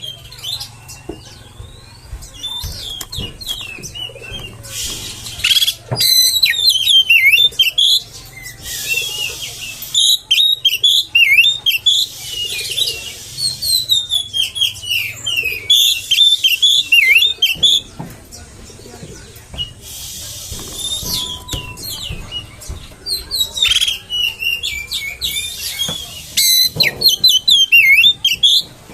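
Oriental magpie-robin (kacer) singing loudly in long, rapid bouts of varied whistles and chattering phrases, broken by short harsh rasping notes, with quieter pauses between bouts.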